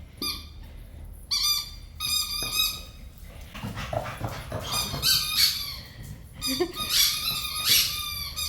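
A dog whining repeatedly in short, high-pitched calls.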